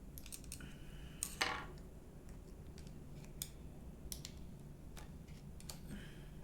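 Small clicks and scrapes of hand work on a disassembled hair dryer's parts, with one louder clink about a second and a half in that rings briefly.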